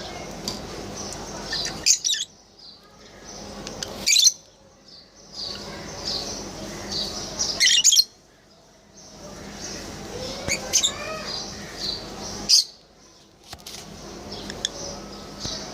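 Pet lovebirds chirping and squawking, with a few short, loud, shrill calls standing out over softer chatter.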